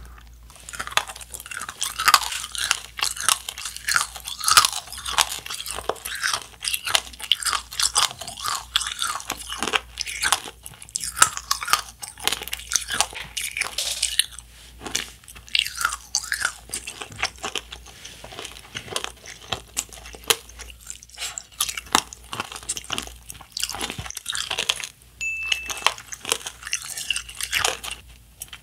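Close-miked chewing and biting of Nerds Rope: the tiny hard Nerds candies coating the gummy rope crunch and crackle between the teeth in a rapid, irregular stream.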